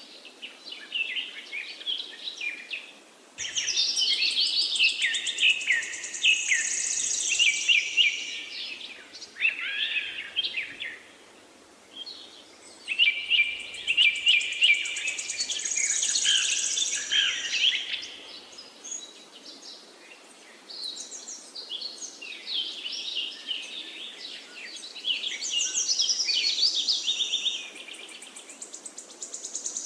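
A chorus of small songbirds chirping and trilling, in dense bursts of song a few seconds long with quieter stretches between, over a faint steady hiss.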